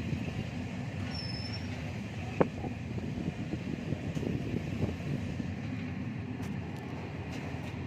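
A vehicle running with a steady low rumble, a sharp click about two and a half seconds in and a brief high squeak about a second in.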